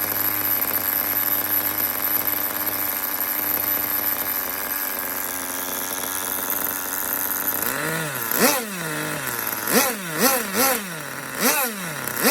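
Kyosho GXR15 small nitro glow engine running at a steady speed. From about two-thirds in it is revved in about five quick throttle blips, each jumping up in pitch and sliding back down.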